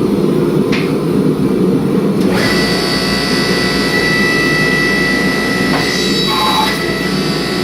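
Blacksmith's forge running with a loud, steady roar. About two seconds in, a knock is followed by a steady high-pitched whine from a running motor that joins the roar.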